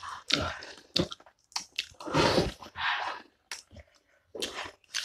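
Close-up wet chewing and biting of sauce-covered chicken feet, in irregular short bursts, with a longer, louder stretch of mouth noise about two seconds in.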